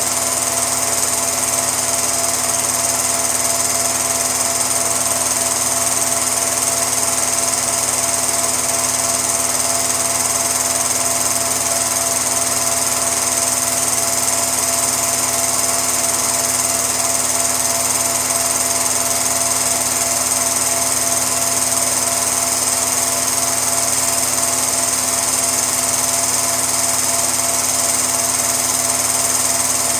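Steady, unchanging machine whir with a constant hum and a high hiss.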